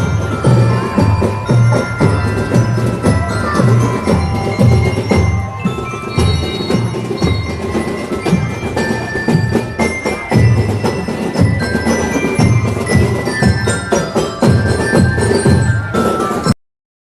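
Marching band playing, with bell lyres ringing a melody over a steady bass drum beat at about two beats a second. The sound cuts out for a moment near the end.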